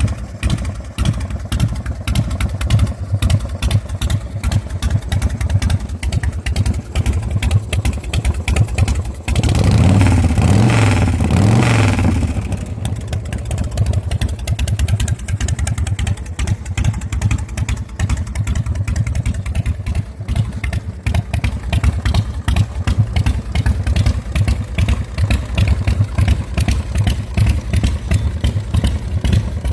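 Bourget Low-Blow custom chopper's 98-cubic-inch S&S V-twin running at idle, with a brief throttle blip of rising and falling revs about ten seconds in.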